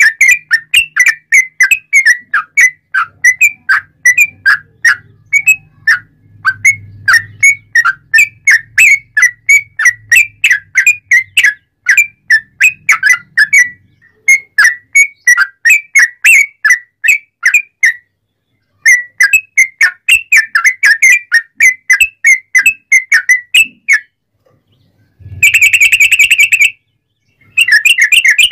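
Yellow-vented bulbul (trucukan) singing a loud, fast run of short whistled chirps, several a second. Near the end it pauses briefly, gives a short harsh buzzy phrase, then goes back to chirping.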